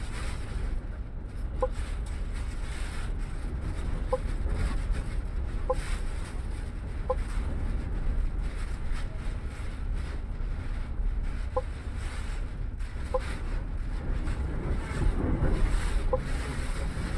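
Cabin noise inside a MAN double-decker bus driving through a storm: a steady low rumble of engine and road with wind rushing around the body. Short high beeps sound about seven times at irregular intervals.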